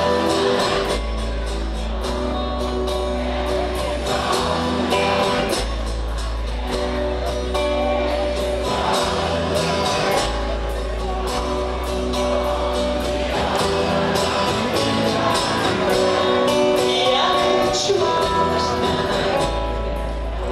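Live rock band playing, with drums, bass and guitars and a singing voice over them, the bass notes changing every couple of seconds.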